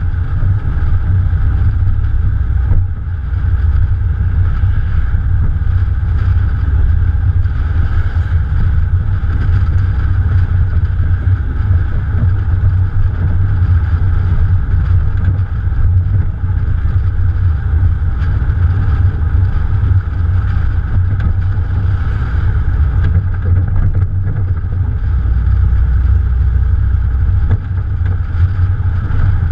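Morgan Plus 4's Ford 2.0 litre four-cylinder engine running steadily while the car is driven, heard from a camera on the bonnet, with a heavy low rumble of wind and road over it.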